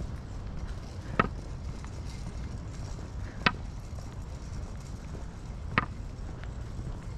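Three sharp clicks, a little over two seconds apart, over a steady low rumble.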